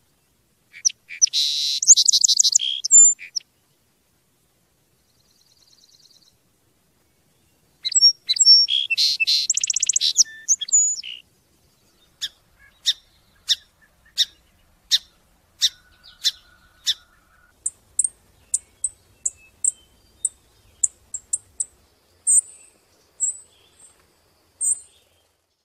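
A songbird singing: two fast, high trilled phrases of a couple of seconds each, then a long run of short, sharp single chirps, one or two a second.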